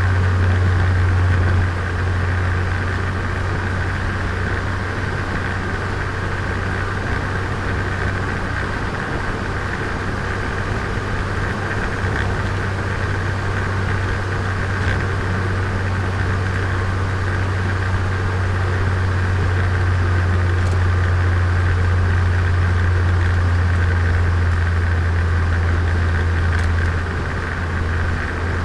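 Turbocharged Nissan Micra engine and exhaust heard from onboard while driving: a steady low drone, easing slightly about two seconds in and dipping briefly near the end.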